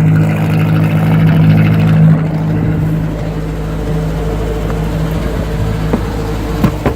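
Universal Atomic 4 four-cylinder gasoline inboard engine running steadily, heard at its wet exhaust, which is discharging cooling water with good pressure: the exhaust is flowing freely, sign the engine is now running well. The sound gets somewhat quieter about two seconds in.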